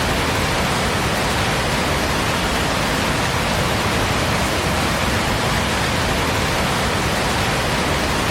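A steady, even rush of water, a dense hiss like heavy rain or fast-flowing floodwater, with no change in level.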